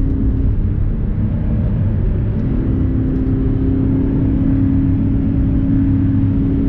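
Audi R8's V8 engine running at highway cruising speed, heard from inside the cabin as a steady drone over low road rumble. The engine tone fades for a moment and comes back stronger about two seconds in.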